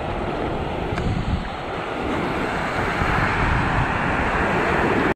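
Wind buffeting the microphone over ocean surf, a steady rushing noise that grows a little louder near the end.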